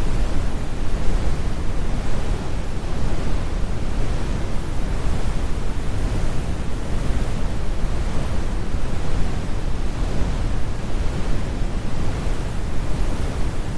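Steady, computer-generated brown noise: an even, deep rumble, loudest in the bass and growing fainter toward the highs, with no changes or events.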